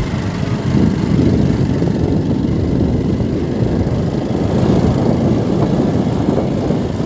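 Motorcycle being ridden on a road, its engine running steadily under a heavy, even low rumble.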